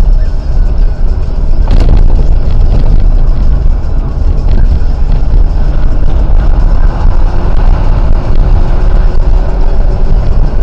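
Patrol car driving: a loud, steady low rumble of engine and road noise, with a single knock about two seconds in.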